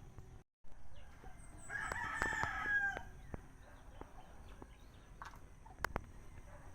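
A rooster crowing once, about a second and a half long, starting about a second and a half in. A couple of sharp clicks follow near the end.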